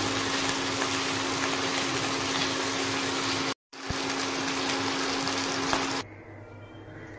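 Chicken pieces sizzling in hot oil in a pan, with a steady hum underneath. The sound cuts out for an instant about halfway through and stops abruptly near the end.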